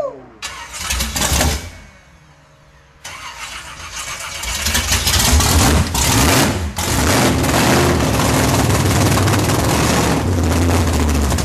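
Freshly built V8 engine's first start-up: a short first burst, a pause, then the engine catches about three seconds in. It builds to a loud, steady run, with one brief stumble midway.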